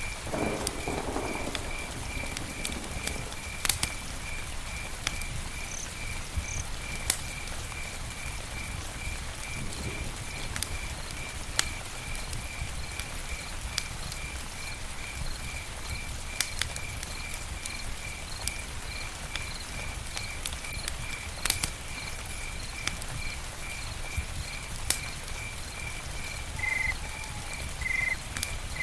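Campfire burning, a steady hiss with scattered sharp crackles and pops. Over it an insect chirps steadily in an even, high-pitched rhythm, about one to two chirps a second.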